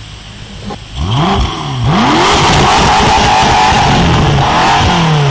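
BMW M5 F10's twin-turbo V8 starting up: it catches about a second in with a rising rev flare, flares again, then runs loud with the revs wavering and falling away near the end.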